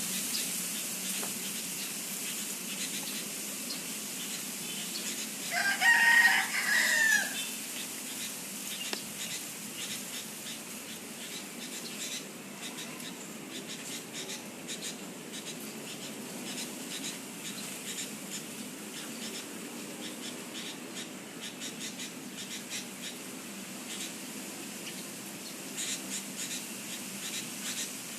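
A rooster crows once, about six seconds in, a single call of about two seconds that rises and then falls away. The rest is a steady high hiss of background, with faint ticks near the end.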